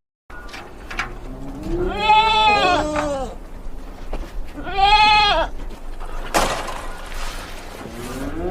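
Livestock calling: two long, arching calls, about two and five seconds in, with a short burst of hiss near the end.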